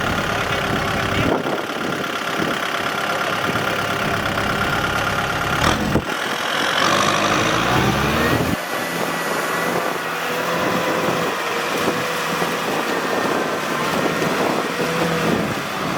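Kubota tractor engine running steadily under load, its pitch shifting and gliding for a couple of seconds about halfway through.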